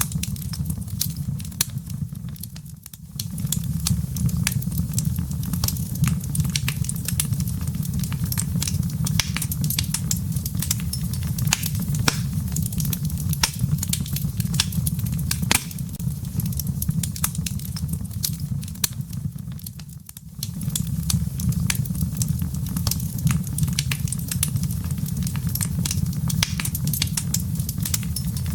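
Wood fire burning in a fireplace: a steady low rumble with many sharp crackles and pops from the burning firewood. The low rumble drops away briefly twice, about three seconds in and again near twenty seconds.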